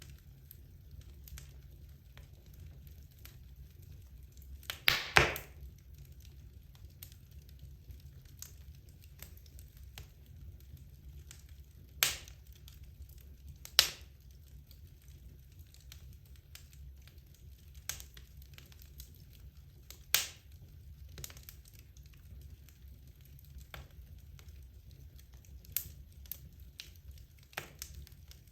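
Wood fire burning in a fireplace, crackling with scattered sharp pops from the burning logs. The loudest is a short burst of popping about five seconds in, then single loud pops at about twelve, fourteen and twenty seconds, over a steady low hum.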